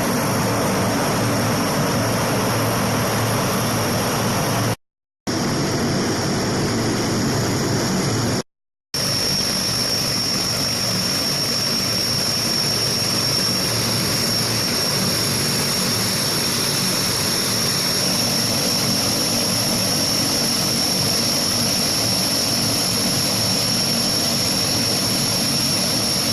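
Lockheed C-130 Hercules's four turboprop engines running: a steady roar with a constant high whine on top. The sound cuts out twice for a moment, about five and eight and a half seconds in.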